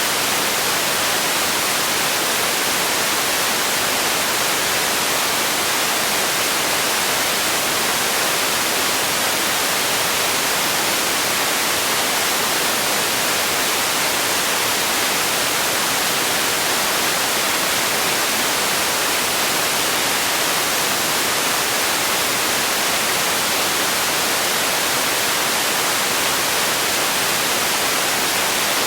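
Steady synthetic white noise: an even, unchanging hiss, bright and strongest in the upper frequencies, with no events.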